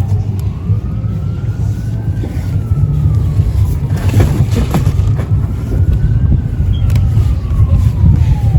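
An emergency-vehicle siren wailing, its pitch sweeping slowly up and down, about two seconds each way, over a steady low rumble. A few brief knocks come near the middle.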